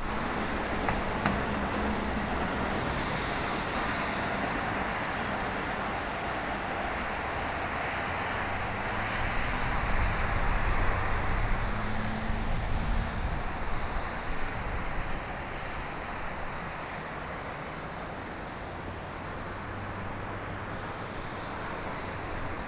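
Airbus A340 jet airliner on landing approach, its engine noise swelling to a peak about halfway through and then easing off, amid gusty wind.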